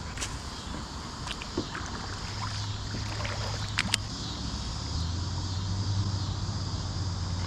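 Steady rush of river water and wind noise around a kayak, growing a little louder about halfway through, with a few sharp clicks and knocks.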